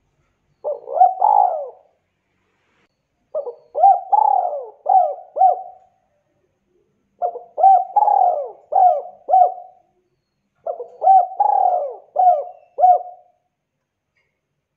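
Spotted dove (tekukur) cooing: four phrases of several rhythmic coos each, repeated every few seconds, the first one shorter.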